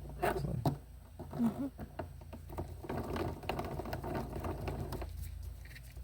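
A few handling knocks, then a socket ratchet clicking rapidly for about three seconds as a fastener is run in. It stops suddenly about five seconds in.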